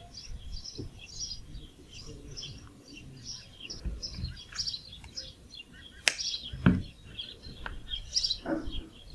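Small birds chirping repeatedly in short high notes, with a sharp click and a dull thump a little after six seconds in.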